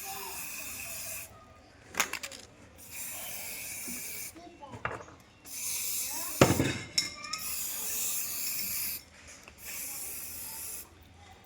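Paint being worked onto a wall in repeated strokes: about four stretches of steady hissing rub, each one to three seconds long and stopping abruptly, with a few sharp knocks between them, the loudest about two-thirds of the way through.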